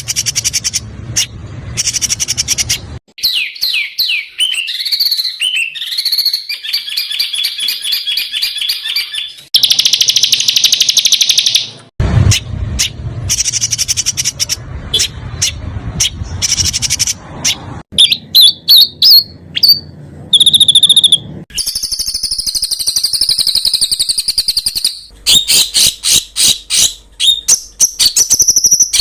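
Small songbirds giving fast chattering trills, stuttering repeated notes and rising-and-falling whistles. The calls are high and loud, in short recordings spliced one after another, so the bird and call type change abruptly every few seconds: a songbird tutor ('masteran') compilation.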